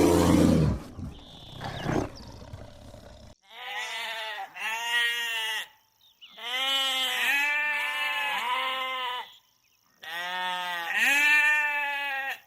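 A large animal's roar ends about a second in. A few seconds later come three bouts of bleating, each made of several wavering calls that rise and fall in pitch.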